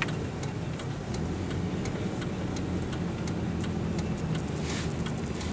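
Car engine running, heard from inside the cabin, with a regular rapid ticking. The engine hum grows stronger in the second half.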